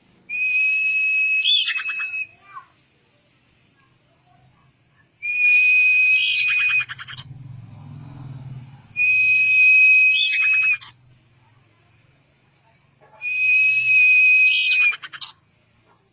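Common iora song: a long, steady high whistle held for about two seconds and ending in a quick sharp flick of notes, given four times about every four seconds.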